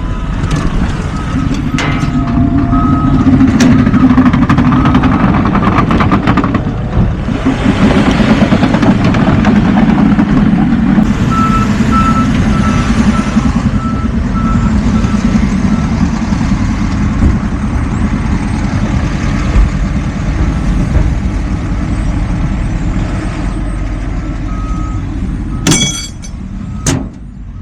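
Garbage truck engine running while its backup alarm beeps in two stretches as the truck reverses. A couple of sharp clicks or knocks come near the end.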